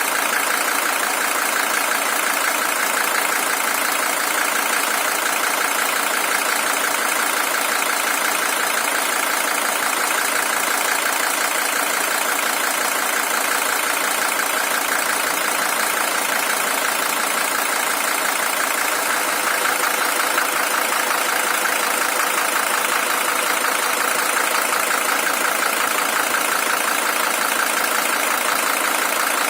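Mercedes-Benz W123 300TD's OM617 five-cylinder diesel engine idling steadily. This is the original engine, with 620,000 km on it.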